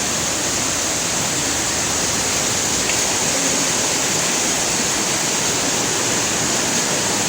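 Steady rush of an artificial waterfall splashing down into a pool inside a greenhouse.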